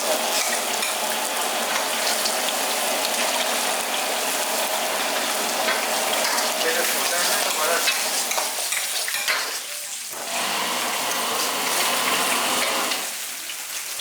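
Food frying and sizzling in a hot wok. The sizzle eases off briefly about ten seconds in and again near the end.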